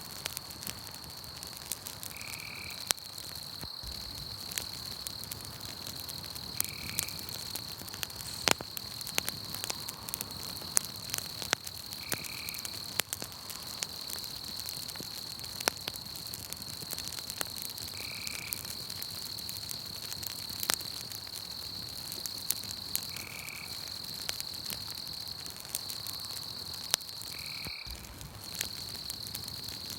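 Campfire crackling with scattered sharp snaps, over a steady high-pitched insect trill. A short call of a night animal repeats about every five seconds, six times.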